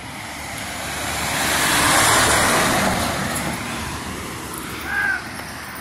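A road vehicle passing close by, its noise swelling to a peak about two seconds in and then fading away. A brief high squeak sounds near the end.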